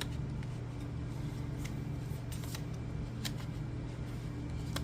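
Oracle cards being handled and laid out: a few light clicks and snaps over a steady low hum.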